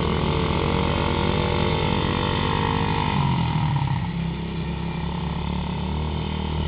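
Small pit-bike engine running, its pitch dropping about three to four seconds in as it slows off, then running steadily at the lower speed.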